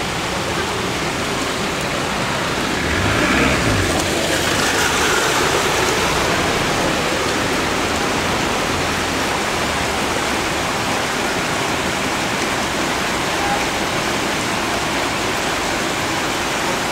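Heavy rain and water running across a flooded street, a steady hiss. A car passes through the water about three seconds in, its engine note rising and falling.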